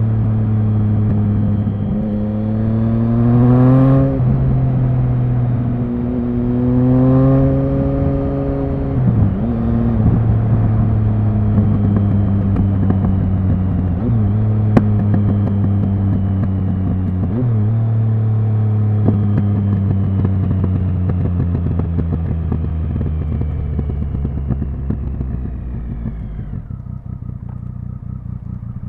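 Triumph Speed Triple 1050's three-cylinder engine accelerating through the gears, its pitch climbing and then dropping at each upshift. It then runs at a steady road speed with brief dips. Near the end the throttle rolls off and the engine falls to a lower, quieter note.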